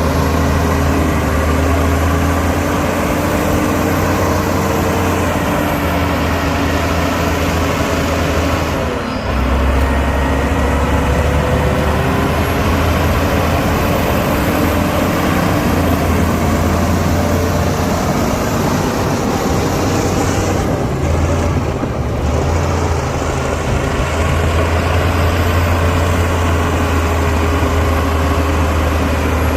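Heavy diesel engine of earthmoving machinery running steadily, its pitch wavering slightly. The engine note dips briefly about nine seconds in and again around twenty-one seconds.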